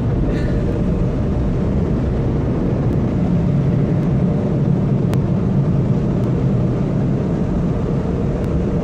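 Steady, loud noise of tunnel car wash machinery, heard from inside the car's cabin.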